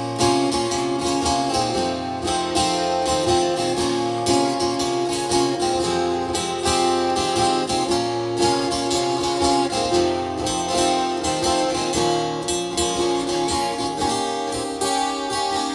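Band music without vocals, led by strummed acoustic guitar with bass, in an instrumental break of a rock song.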